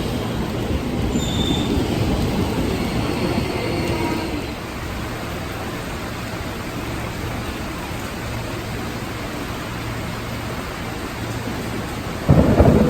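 Jakarta KRL Commuter Line electric train running on the rails: a steady rumble with brief high wheel squeals about a second in, dropping to a quieter steady run after about four and a half seconds. Near the end a much louder sound with pitched tones cuts in suddenly.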